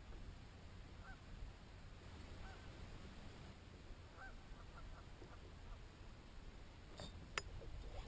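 Faint short bird calls, a handful of times, over a low steady rumble. Two sharp clicks near the end, the second louder.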